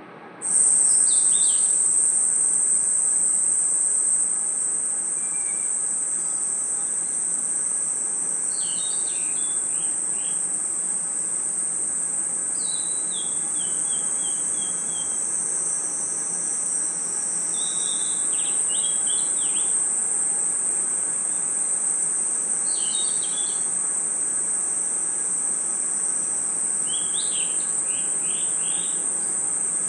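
Night chorus of crickets and other insects, a steady high-pitched trill that cuts in suddenly about half a second in. A bird repeats a short run of falling chirps about every four or five seconds.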